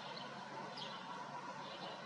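A few faint, short chirps of house sparrows, near the start and again just under a second in, over steady outdoor background noise.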